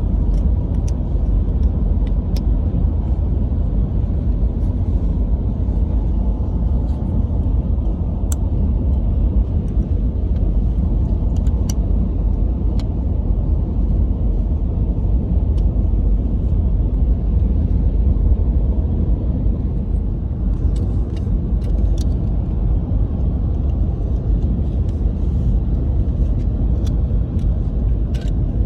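Steady low rumble with scattered faint clicks.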